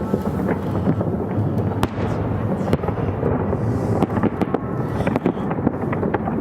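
Fireworks bursting in quick succession, many sharp bangs and crackles over a continuous rumble from the display across the river.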